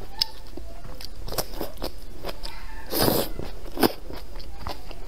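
Close-up eating sounds: wet chewing with many small mouth clicks, and a louder crunching bite about three seconds in, as stir-fried leafy greens are bitten and chewed.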